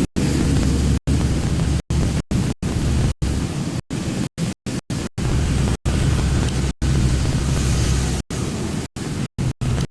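Steady low rumble and hiss of a truck on the road, with the audio cutting out to silence for an instant many times at uneven intervals.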